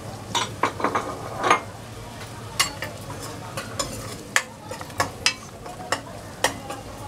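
Masala frying in hot oil: a steady sizzle broken by irregular sharp pops and crackles.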